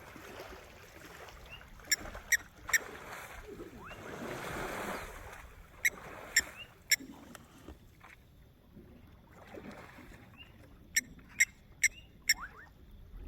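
Elephant splashing and spraying water at a waterhole, with a longer wash of water about four seconds in. Over it, a nocturnal animal gives sharp clicking calls in sets of three or four, about two, six and eleven seconds in.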